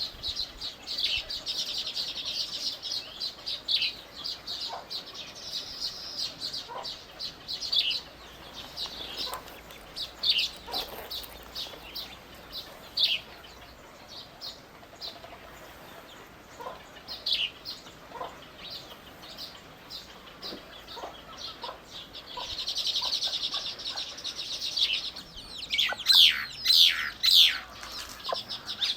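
Small birds chirping in many short, high calls, with two stretches of rapid buzzy trilling. The loudest part is a quick run of down-slurred notes near the end.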